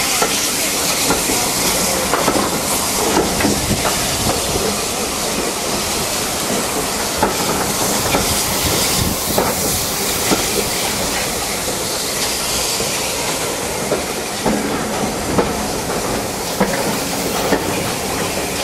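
Steam-hauled passenger coaches rolling slowly past, their wheels clicking and knocking irregularly over the rail joints, over a steady hiss of steam.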